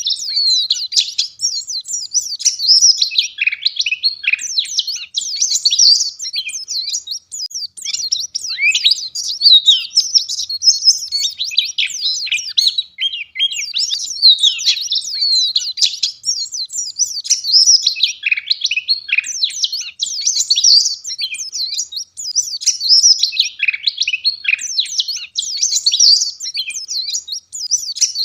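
White-eye (pleci) singing a dense, continuous, high-pitched twittering song of rapid runs of notes, with only brief breaks.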